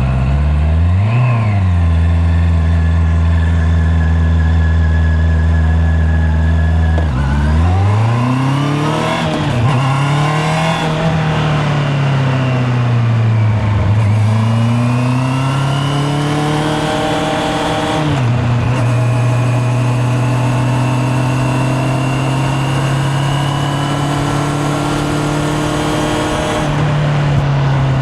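Honda CB650R's inline-four engine idling steadily with one quick throttle blip about a second in, then pulling away, its pitch rising and falling through gear changes before settling into a steady cruise.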